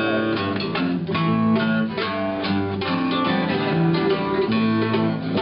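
Instrumental band music led by acoustic guitar, with plucked string notes over sustained chords and no singing.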